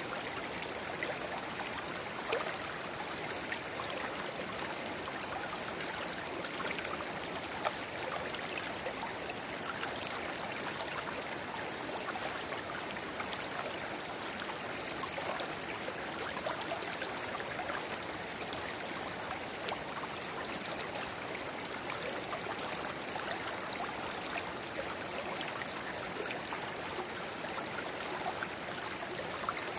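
Shallow river babbling steadily where a small spring-fed channel runs into the main stream, with little gurgles and splashes scattered through the flow.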